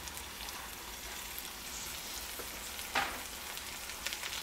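Sliced onions and chopped jalapeños frying gently in butter in a stainless steel skillet over low heat, a steady soft sizzle. A brief knock comes about three seconds in.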